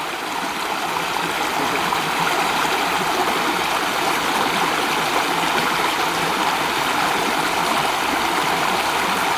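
Running stream water, a steady rushing wash.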